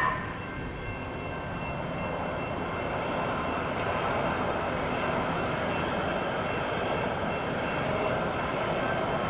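Train passing over a grade crossing: a steady rumble of wheels on the rails that grows slowly louder. The tail of a train horn blast cuts off right at the start.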